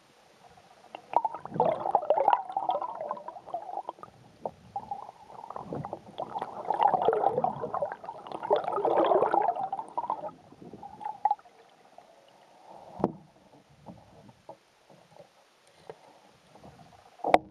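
Canoe paddling: water splashing and gurgling around the paddle and hull, in two longer stretches, with a sharp knock near the end.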